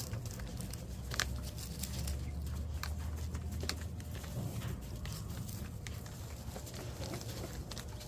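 Coturnix quail pecking and scratching at their feed: scattered sharp ticks and taps over a low rumble.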